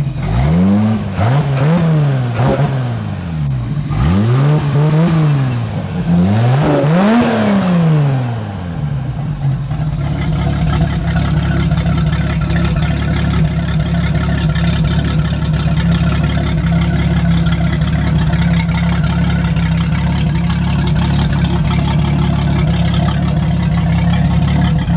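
1996 MerCruiser 4.3-litre Vortec V6 marine engine with a four-barrel carburettor, run on a test stand. Its throttle is blipped up and back down again and again over the first nine seconds or so, then it settles into a steady run. It runs smoothly, with no ticks, vibrations or rattles.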